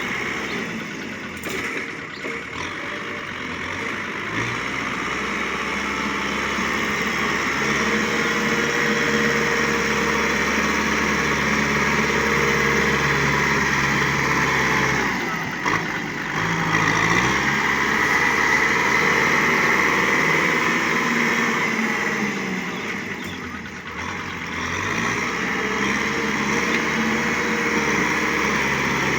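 Tractor engine running steadily, its revs sagging and then climbing back up a few times.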